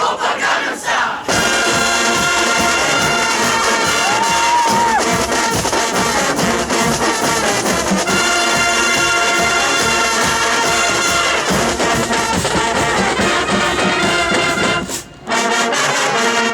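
High school marching band playing loud, sustained brass chords on trumpets and trombones, with a short break about 15 seconds in before the band comes back in.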